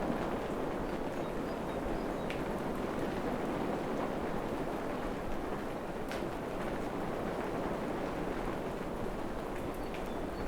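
Steady rain falling on forest foliage, an even hiss with occasional sharper drips and ticks, one clearer about six seconds in. A few faint high chirps sit in the background.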